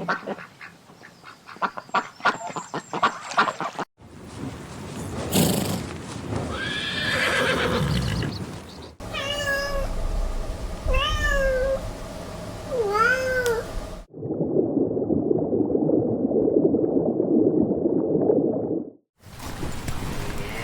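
A run of short animal sound clips. A chicken clucks in quick repeated notes until about 4 s in. Next comes a rougher, unclear animal call. A cat then meows three times, each call rising and falling. After that there is a few seconds of steady coarse noise, and near the end a cow begins to moo.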